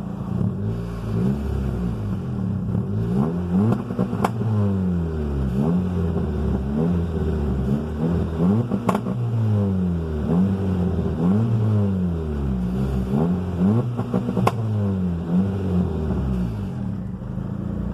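Turbocharged Honda engine revved against a two-step launch-control limiter. Engine speed rises and falls over and over, about every second and a half, with sharp exhaust pops, three of them standing out loudest.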